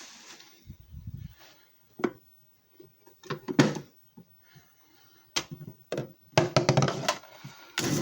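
Handling clicks and knocks on a JFJ Easy Pro disc repair machine as it is set up. There is a low thump about a second in, then scattered sharp clicks, and a quick run of clicks near the end.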